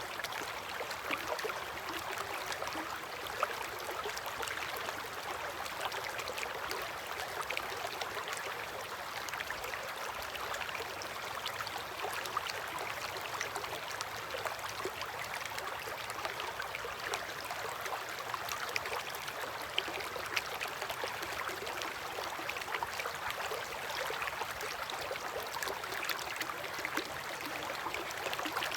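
River water flowing steadily against its bank, an even rushing with many small splashes and gurgles throughout.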